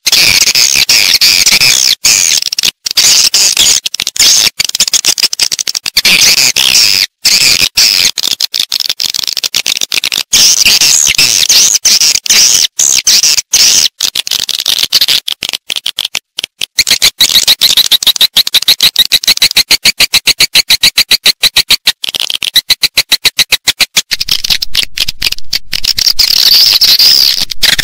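Recorded swiftlet lure call: edible-nest swiftlets chattering in a fast, dense stream of high, sharp chirps and twitters, the sound played in swiftlet houses to draw the birds in to roost and nest.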